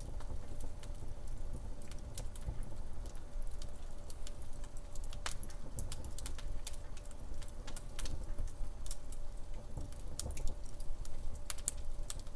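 Wood fire crackling in a fireplace: irregular sharp pops and snaps over a low rumble from the burning logs.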